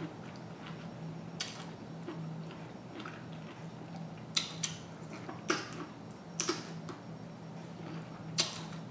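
A person eating seafood quietly close to the microphone: soft wet mouth clicks and smacks of chewing, coming every second or so, over a faint steady hum.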